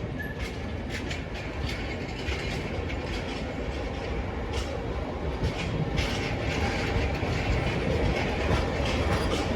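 Train passing close by, its wheels clacking irregularly over rail joints over a steady rumble, growing slowly louder.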